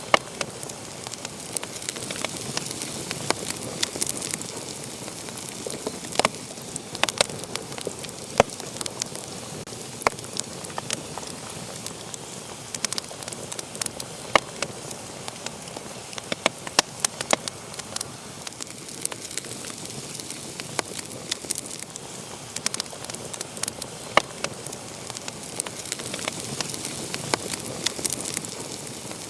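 Wood fire crackling in a fireplace: irregular sharp pops and snaps, some clustered in quick runs, over a steady hiss of burning.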